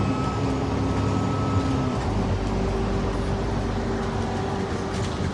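Steady low hum of a running vehicle, with a change in its tone about two seconds in.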